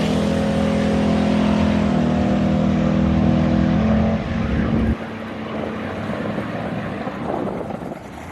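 Engine running hard at full throttle over a rushing noise, its pitch holding steady and dropping a notch twice. About five seconds in the engine note cuts off abruptly, leaving a quieter rough rushing noise.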